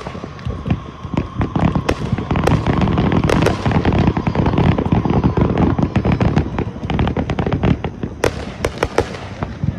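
Consumer fireworks going off in a dense barrage: a rapid, continuous run of bangs and crackles with a steady whistle-like tone through the first few seconds.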